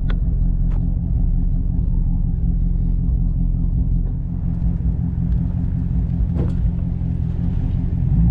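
Dodge Challenger's engine and exhaust holding a steady low rumble while cruising, with no rise or fall in pitch.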